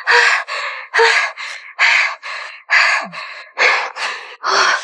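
A woman panting hard, loud quick gasping breaths in and out about twice a second: she is out of breath from straining against a big fish on the line.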